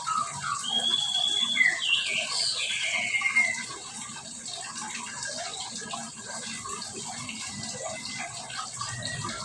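A mixed flock of captive songbirds chirping and whistling over a steady hiss. A long level whistle comes about half a second in, then a falling whistle around two seconds in, followed by quieter scattered chirps.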